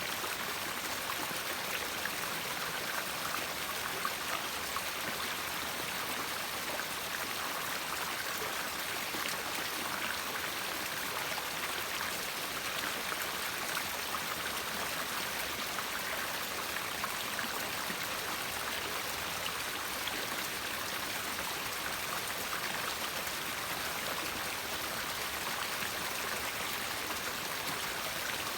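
A river flowing steadily, its water rushing and babbling over stones in a continuous even wash.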